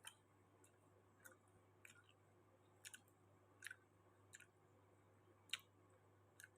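Close-miked chewing of santol fruit: sharp, crisp crunches and wet mouth clicks at irregular intervals, about ten in all, the loudest about five and a half seconds in.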